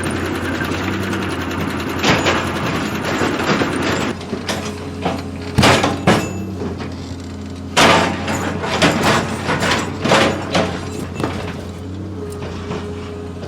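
Heavy machinery running with a steady low hum, joined from about four seconds in by a series of irregular metallic clanks and knocks.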